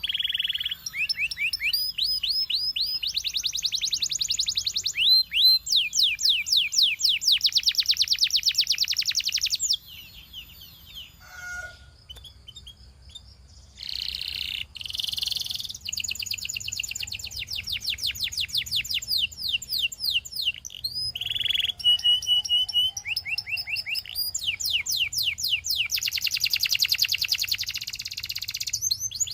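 Canary singing: long runs of fast, evenly repeated high notes in trills and rolls, with a quieter pause of a few seconds around the middle before the song resumes.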